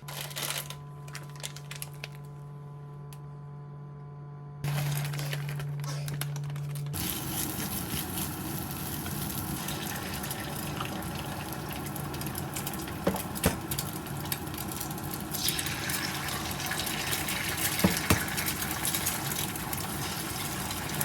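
Kitchen sounds: a steady electric hum with a few higher tones for about seven seconds, then water running steadily into a sink, with occasional clicks and knocks of dishes or utensils.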